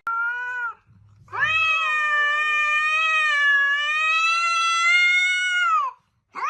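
A cat meowing: a short meow, then one long drawn-out yowl lasting nearly five seconds, and another meow starting just at the end.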